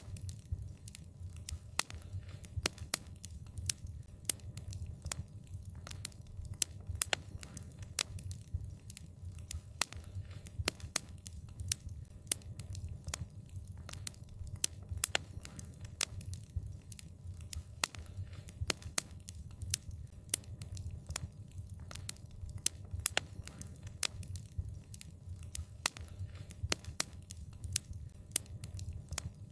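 Fire crackling: a dense, irregular run of sharp pops and snaps over a steady low rumble of burning.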